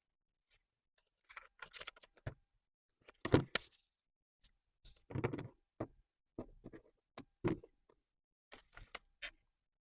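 Scissors cutting a band out of scrap paper: short runs of quick snips, separated by pauses while the paper is handled.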